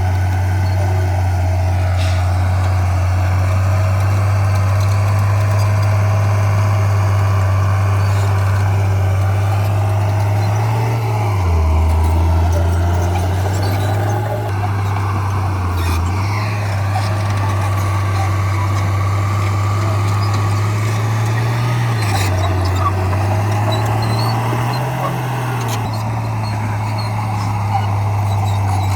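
Komatsu crawler bulldozer's diesel engine running steadily under load. Its pitch dips and recovers several times as the load changes, with a few sharp clicks.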